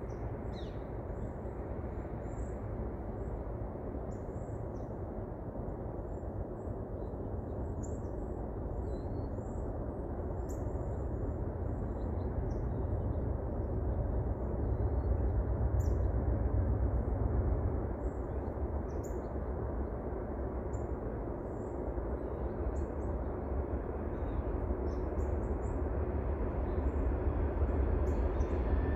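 Small birds chirping now and then over a steady low rumble that slowly grows louder: the diesel locomotives of a loaded freight train approaching.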